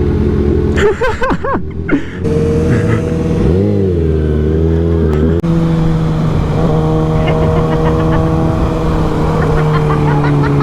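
Motorcycle engine running on the road. Its pitch dips and climbs again about four seconds in, then settles into a steady drone.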